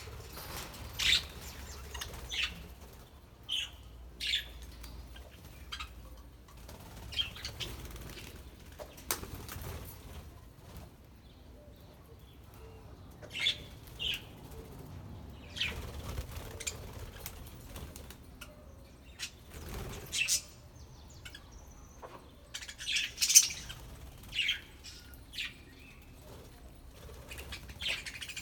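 A flock of budgerigars chirping in short, scattered calls, with occasional wing flapping. The loudest call comes about 23 seconds in.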